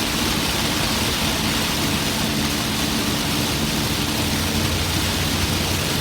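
Heavy rain on a car driving on a wet highway, a steady hiss of rain and tyre spray with a faint low hum underneath.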